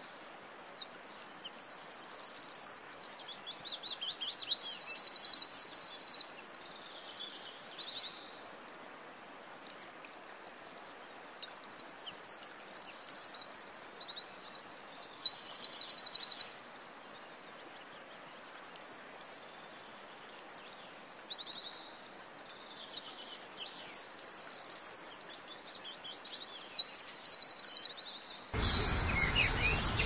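Bird singing: high chirps, fast trills and sliding notes in phrases that recur about every ten to twelve seconds, over a steady hiss. About two seconds before the end a louder, fuller noise comes in.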